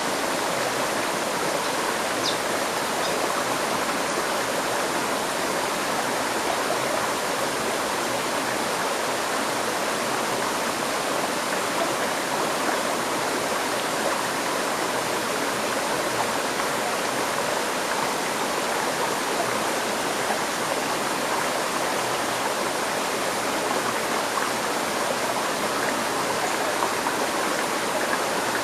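River stream flowing over rocks: a steady, even rush of water.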